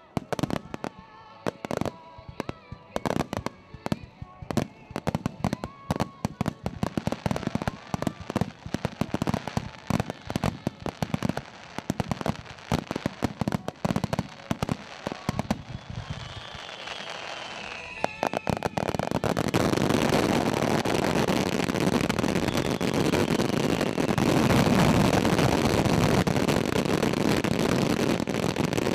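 Fireworks display: shells bursting in quick succession, one after another, with a high whistle falling in pitch at about 17 s. From about 19 s the bursts merge into a dense, continuous, louder barrage of bangs and crackle.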